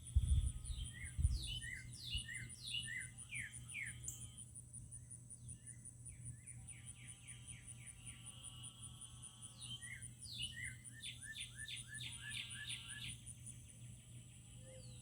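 A songbird singing two bursts of quick, downslurred chirps, over a steady high-pitched insect trill. A low rumble sits under the first second.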